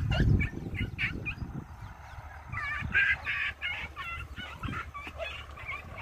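A bird calling in a fast series of short, pitched calls for about two seconds midway through, with fainter calls after. A low rumble with thumps is loudest in the first half-second.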